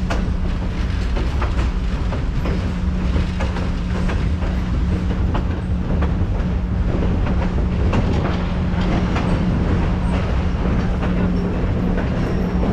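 Passenger train rolling along the track, heard from an open railcar: a steady running rumble with a low hum and wheels clicking over the rail joints.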